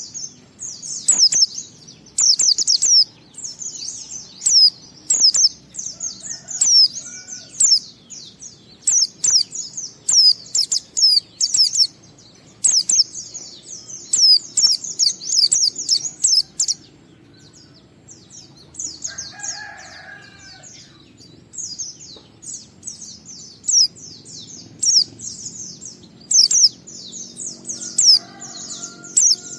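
White-eye (pleci) singing: fast, high twittering phrases in bursts of a second or two, with a short break a little past the middle. A couple of brief, lower calls sound faintly behind it.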